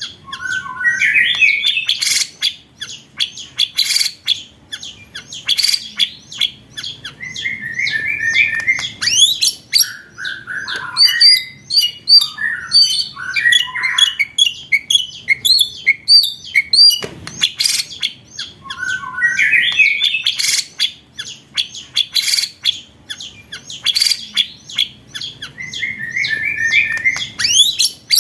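Recorded white-rumped shama (murai batu) song for bird training: whistled phrases that sweep up and down mixed with rapid, sharp, clicking rattle notes, the 'roll tembak' fire calls. The same sequence repeats about every ten seconds, as a loop.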